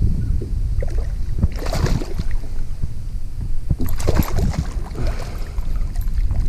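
A hooked largemouth bass thrashing and splashing in the water beside a kayak, in two bursts: about a second and a half in and again about four seconds in. Wind rumbles on the microphone throughout.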